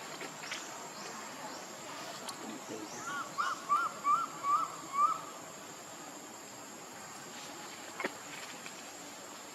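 A quick run of about six short animal calls, each rising then falling in pitch, about three a second, over faint outdoor background, with a single sharp click near the end.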